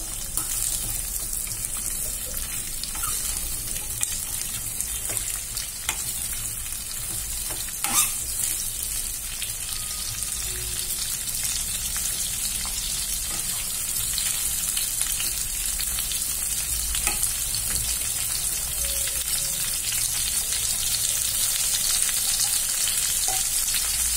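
Bitter gourd slices sizzling steadily in hot oil in a metal kadai on a high flame, with a steel spoon stirring them and now and then clinking against the pan, the sharpest clink about eight seconds in. The sizzle grows a little louder in the second half.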